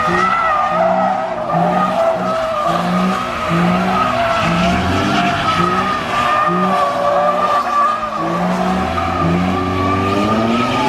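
Car tyres squealing in a long, continuous skid, a steady wavering screech, with an engine running underneath.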